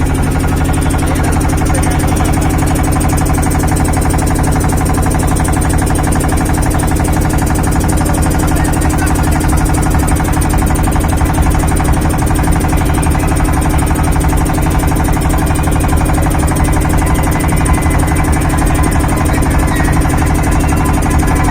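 An engine running steadily at an even speed, a loud unchanging hum made of many layered tones.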